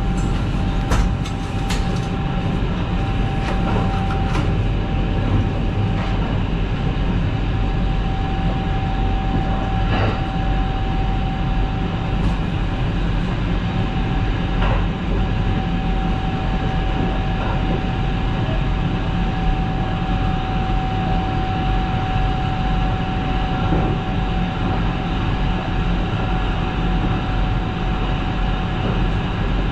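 Kintetsu 22000 series ACE limited express electric train running along the line, heard from inside the car: a steady rumble of wheels on rail with a high tone held throughout. Several sharp clicks come in the first few seconds and a few more later.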